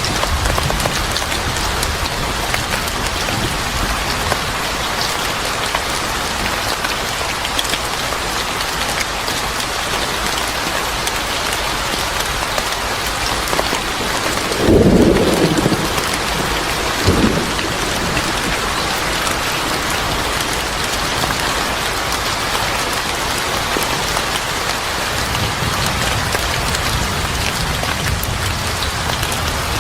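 Steady heavy rain falling, with thunder about halfway through: a short, loud clap followed by a smaller one about two seconds later, and low rumbling near the start and again near the end.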